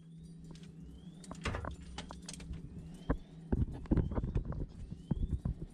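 Vaillant gas boiler firing up: a steady low hum with irregular light tinkling clicks, the boiler heating its water as circulation is restored.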